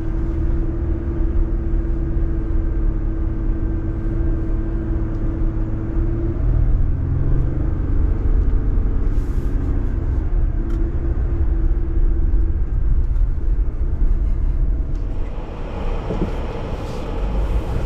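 Jeep engine and drivetrain running while driving: a steady low rumble with a droning hum that changes pitch about six seconds in. A broader rushing noise joins near the end.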